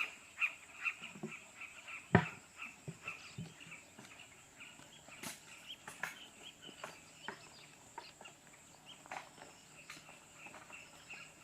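Wild bush ambience: small birds give quick repeated chirps over a steady high insect trill, with scattered faint clicks and a sharp knock about two seconds in.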